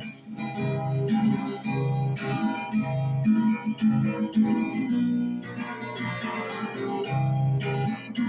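Music: a guitar strumming chords in a steady rhythm, with the word "progress" sung at the very start.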